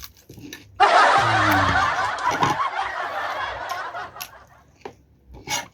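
A sudden burst of laughter about a second in, fading away over about three seconds.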